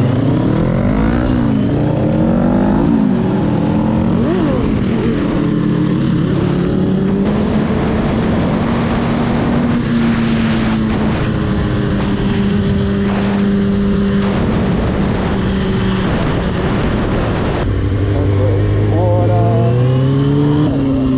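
Motorcycle engine under way. The revs rise and fall quickly through several gear changes in the first few seconds, then hold steady for a long cruise, and climb again near the end.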